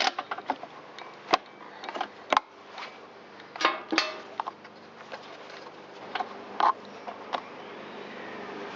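Scattered clicks and knocks of a plug wrench and handled parts as the spark plug is taken out of an Echo PB-770H blower's engine, in short clusters with the sharpest knocks about one and a half and two and a half seconds in.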